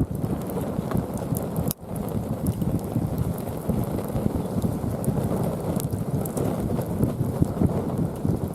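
Hardwood fire burning in a round fire pit: a steady low rush of flames with scattered sharp crackles and pops. The sound drops out for an instant just under two seconds in.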